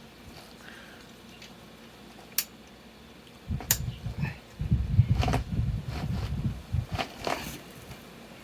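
Tools and metal parts being handled during motorcycle assembly: scattered sharp clicks and clanks over low knocks and bumps, busiest in the second half.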